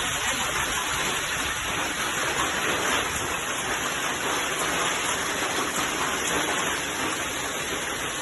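Hailstorm: hailstones and rain falling steadily, a dense even hiss of countless small impacts.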